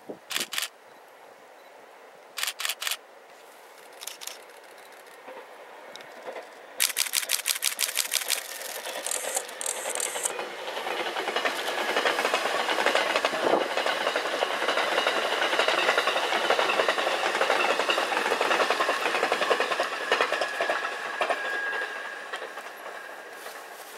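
Camera shutters firing in short bursts, one a rapid run of about ten clicks a second, as the E001-series TRAIN SUITE Shiki-shima approaches. The train then passes with a rush of wheels on rail that swells, holds for several seconds and fades away, with a thin steady whine near the end.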